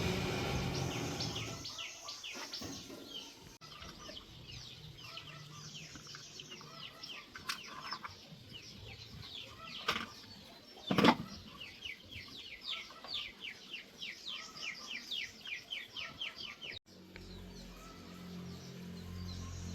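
Rapid runs of high bird chirps repeating about four or five times a second, broken by a few sharp knocks, the loudest about eleven seconds in; a steady low hum takes over near the end.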